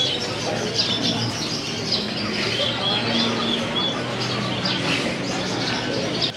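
Many caged birds chirping at once: a dense, continuous chatter of short high calls, over a steady low hum.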